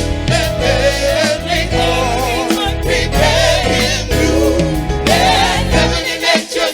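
Gospel music: a choir singing with band accompaniment.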